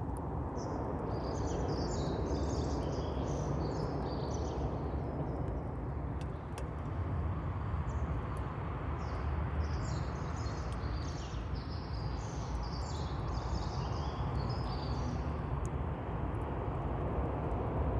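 A steady low outdoor rumble with birds chirping in two bouts of quick, high calls. A few faint sharp crackles come from a campfire.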